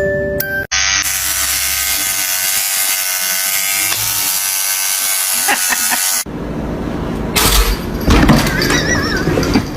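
A small electric motor buzzing steadily at a constant pitch for about five seconds, then cutting off abruptly.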